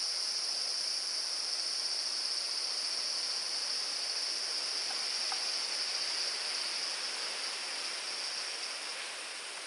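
Insects calling in chorus, a continuous high-pitched buzz over a steady background hiss, growing a little fainter near the end.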